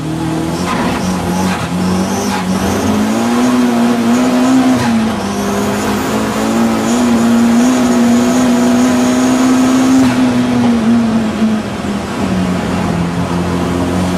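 Audi TT race car's engine running hard at speed. Its pitch climbs over the first few seconds, dips briefly about five seconds in, holds steady at high revs, then falls away near the end.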